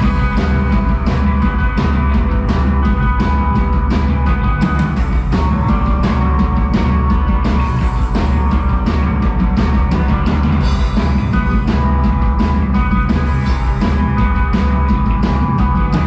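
Live rock band playing loudly at full ensemble: a drum kit beating steadily over heavy bass and sustained instrument tones.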